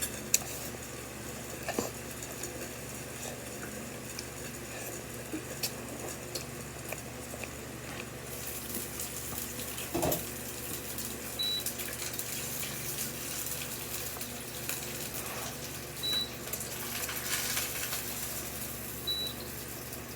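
Eating sounds: scattered light clicks of utensils against a dish over a steady background hiss, with a slightly louder brief sound about halfway through.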